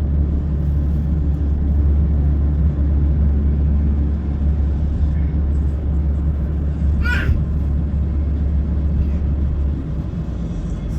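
Steady low rumble and hum of a Class 170 Turbostar diesel multiple unit under way, heard from inside the carriage, easing slightly near the end. A brief high squeak sounds about seven seconds in.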